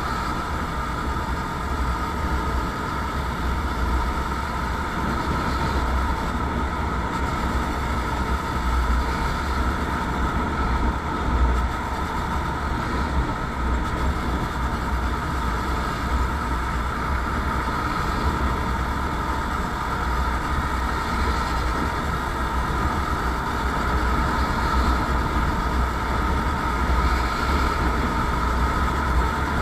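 Motorcycle running steadily on the road, with a continuous drone and a heavy low rumble that flickers throughout.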